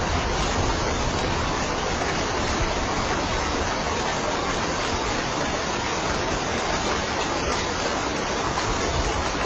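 Steady heavy rain, an even hiss with no single drops or thunder standing out.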